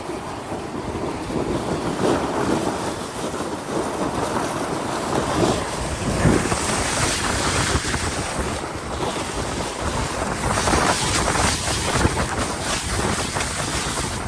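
Wind noise on the microphone: a steady rushing that grows brighter and stronger about six seconds in, then eases again a few seconds later.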